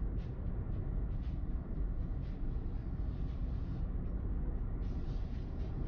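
Steady low road and engine rumble of a car driving on a snowy road, heard from inside the car, with hiss that comes and goes and grows louder near the end.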